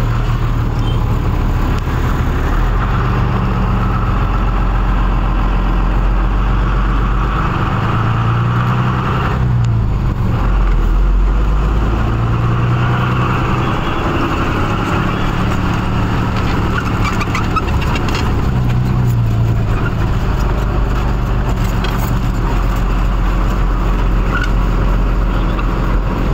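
Tata truck's diesel engine running steadily on the move, its pitch climbing and dropping twice as the revs change.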